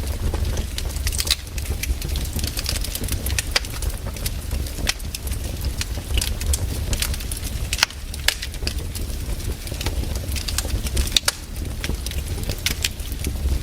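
Wood fire crackling in a fireplace, with frequent sharp pops and snaps over a steady low rumble of the burning.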